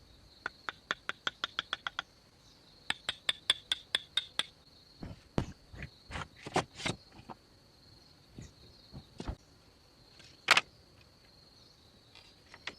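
Two runs of rapid taps, about eight a second, then a handful of irregular, heavier knocks, the loudest about ten and a half seconds in, over a steady high-pitched insect drone.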